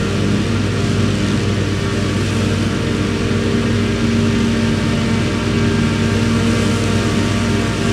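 Tractor's diesel engine running steadily at an even speed, its deep hum unchanging.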